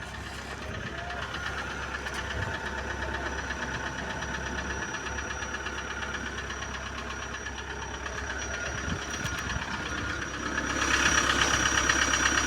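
Vehicle engine running steadily, heard from inside the vehicle as it drives through snow, growing louder about ten and a half seconds in.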